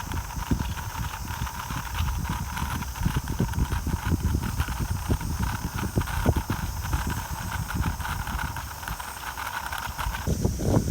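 Strong typhoon wind buffeting the microphone in uneven low rumbling gusts during a bicycle ride, with a steady higher hum and hiss underneath.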